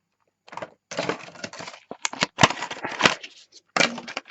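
Toy packaging being opened by hand: irregular crackling and sharp clicks in short bursts with brief pauses.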